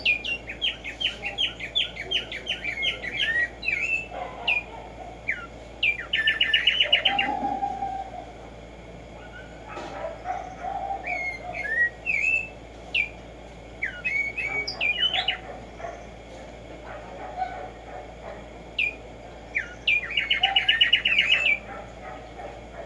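Black-striped sparrow singing: a run of sharp, rising chip notes that speeds into a fast rattling trill, about six seconds in and again near the end.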